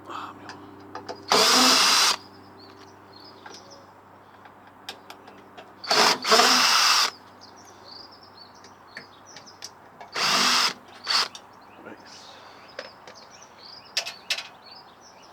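Cordless drill-driver running in four short bursts, each under a second to about a second long, backing out the screws that hold a microwave oven's transformer.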